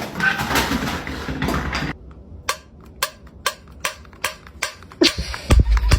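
A rustling noise for about two seconds, then a run of sharp taps or clicks, about two to three a second, with a loud low thump near the end.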